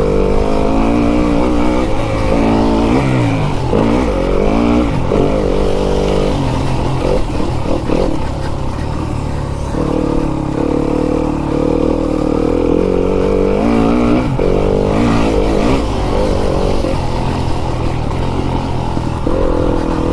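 Fantic enduro dirt bike's engine being ridden hard, its pitch rising and falling over and over as the throttle is opened and shut and the gears change.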